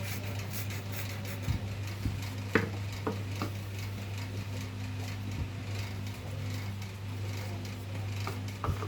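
A few light metallic clicks and taps from table fan parts and tools being handled, bunched in the first few seconds with one more near the end, over a steady low hum.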